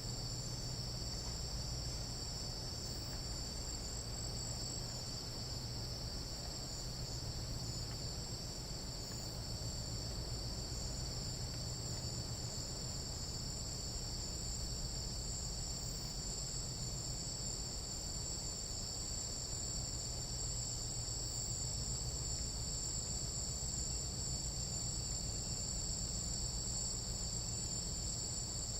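Chorus of night insects in tropical jungle, a steady high-pitched trilling that holds without a break, over a faint low rumble.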